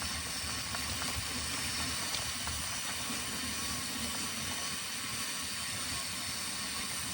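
Steady hiss and rumble of a Trek mountain bike being ridden on a muddy trail, tyres rolling over the ground with wind on the microphone, and a few light clicks and rattles.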